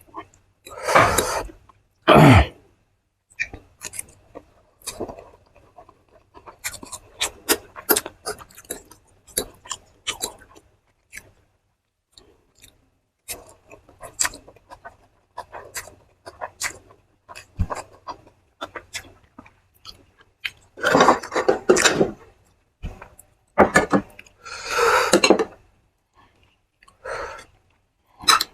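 A person eating, with close-up chewing and many small crunchy clicks and crackles, some of them like utensil or plate contact. A few louder breathy bursts come near the start and again about three-quarters of the way through.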